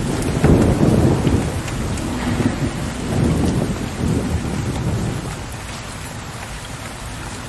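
Steady rain with a low rumble of distant thunder that swells about half a second in and dies away over the next few seconds, leaving the rain alone near the end.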